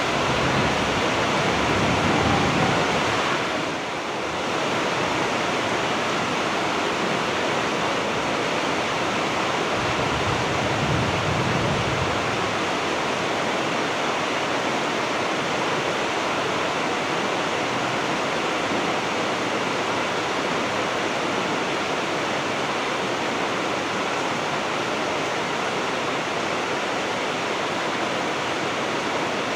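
Heavy rain pouring steadily, an even, dense hiss, with a brief dip in level about four seconds in.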